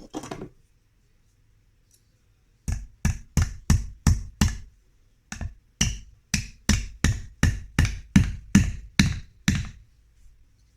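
Hammer driving a nail into a wooden beehive frame: about seventeen sharp strikes at two to three a second, with a short pause partway through.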